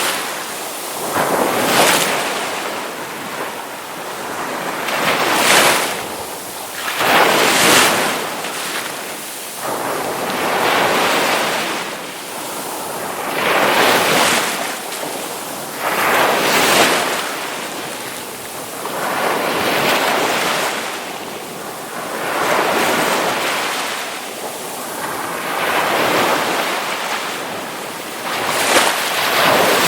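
Ocean surf with waves breaking one after another, a rushing surge that rises and falls about every three seconds.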